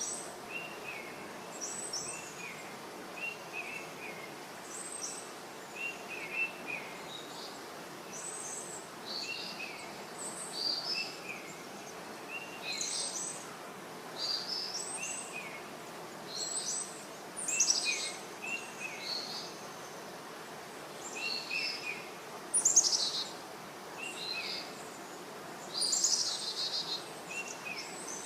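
Several birds calling and singing: short chirps repeated about once a second and higher whistled phrases, over a steady background hiss.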